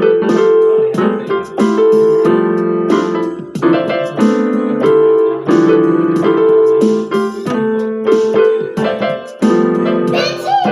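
Keyboard with a piano sound playing a tune in struck chords, the notes held between strikes.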